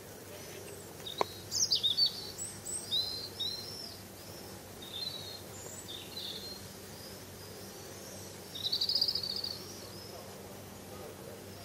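Songbirds chirping outdoors: short high calls and whistled notes, loudest in the first couple of seconds, with a quick trill near the end. A steady low hum runs underneath, and there is one sharp click about a second in.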